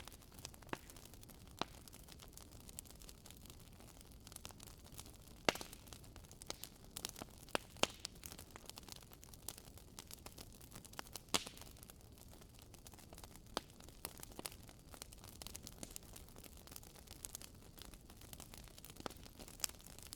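Wood fire crackling in a fireplace: scattered sharp pops and snaps at irregular moments over a soft steady hiss.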